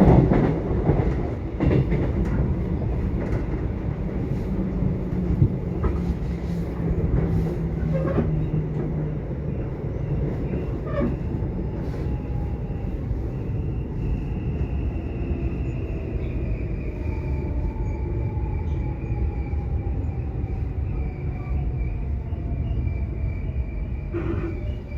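Subway train running: a steady low rumble with a few brief knocks, and faint high tones gliding slowly downward through the second half.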